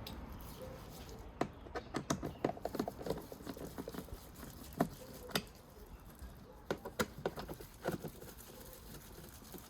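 Irregular light clicks and taps of a hand tool and small metal bolts against plastic, in a quick cluster about a second and a half in and a few more later, as the cabin air filter housing's bolts are undone.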